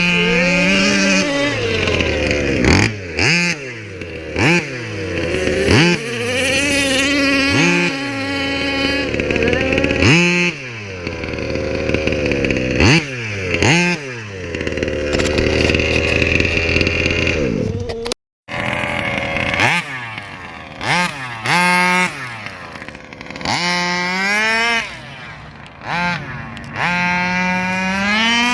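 38cc two-stroke engine of a King Motors Baja 5b RC buggy with an Olimat tuned pipe, revving up and dropping back over and over as the buggy is driven hard. The sound cuts out for a split second about two-thirds of the way through.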